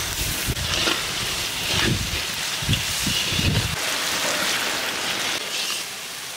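Onion, garlic, ginger and chilli masala with sauces sizzling in oil in an iron karahi, being stirred and cooked down. The steady sizzle runs throughout, with dull low bumps over the first few seconds that stop a little before four seconds in.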